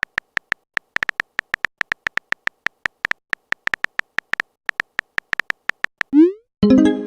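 Messaging-app sound effects: a run of short, identically pitched beeps at an uneven typing pace, then a quick rising swoop about six seconds in and a ringing notification chime near the end.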